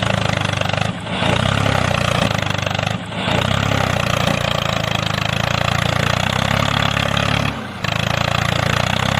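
Engine running steadily with an even pulsing, cutting out briefly three times and picking straight back up.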